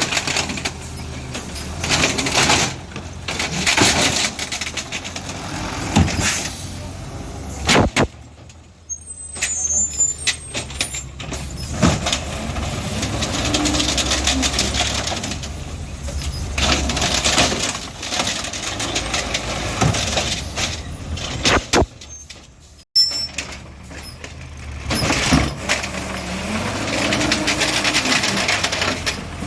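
Garbage truck working in the street: its diesel engine running, with scattered sharp knocks.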